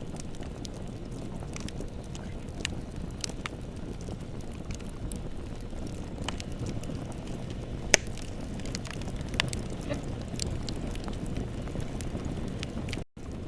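Bonfire burning with a steady low rumble and scattered crackles and pops, one sharp loud pop about eight seconds in. The sound drops out for a split second near the end.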